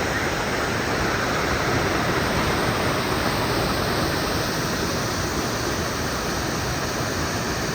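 Steady rushing of falling water, an even full-range roar that starts and stops abruptly.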